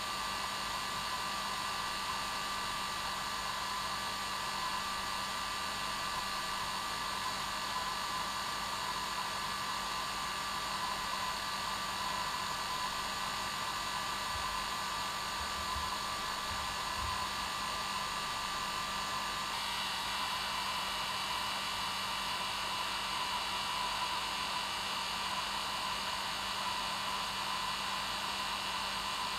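Hair dryer running steadily: a continuous rush of air with a steady motor whine running through it. The higher tones shift slightly about twenty seconds in.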